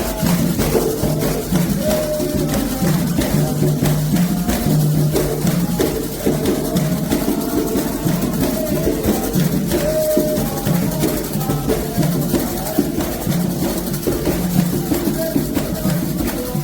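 Candomblé ritual music: atabaque hand drums and shaker-type percussion keep a steady, dense rhythm under voices singing a chant.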